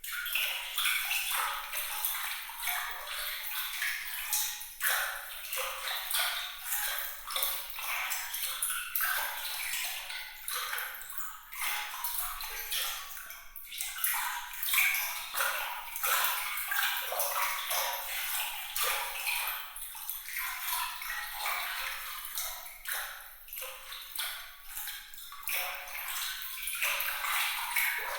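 Glittering water sound: a continuous, dense run of small trickles, drips and plinks, bright and high with almost no low end.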